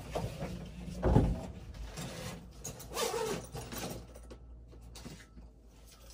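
Knocks and scraping clatter of hand work on an old furnace: a loud knock about a second in, a second rattling scrape around three seconds, then lighter clicks.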